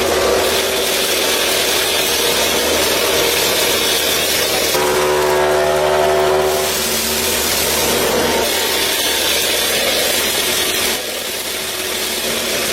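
A small motor and gears running with a steady grinding, rasping noise. A buzzy horn-like tone sounds for about two seconds near the middle.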